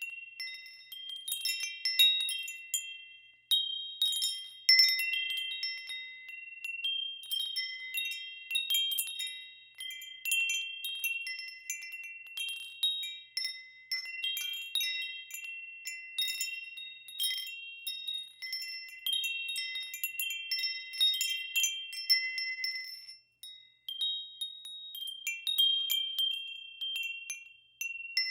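Metal wind chimes ringing in the wind, several high tubes struck at random and overlapping, with two brief lulls near the end.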